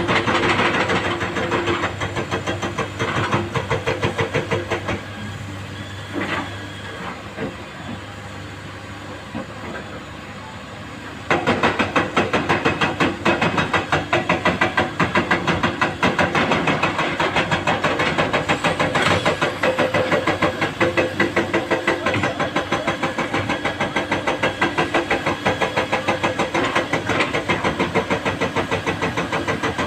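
Heavy diesel engine running hard with a fast, throbbing firing rhythm. It eases to a lower level for several seconds, then comes back loud all at once about eleven seconds in.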